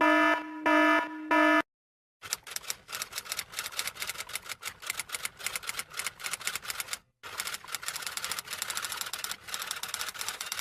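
Three short, loud horn-like beeps in the first second and a half. After a brief gap comes rapid, irregular clatter of typewriter keys: one run of about five seconds, a short break, then another of about four seconds.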